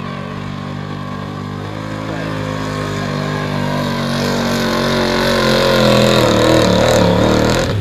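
Engine of a modified gas pulling truck running hard at high revs. It grows steadily louder through the middle, then drops away abruptly near the end as the throttle comes off.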